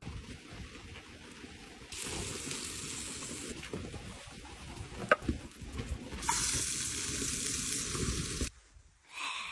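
Food sizzling in a pan over a campfire, a steady hiss that swells twice, with one sharp click about five seconds in. It cuts off suddenly near the end.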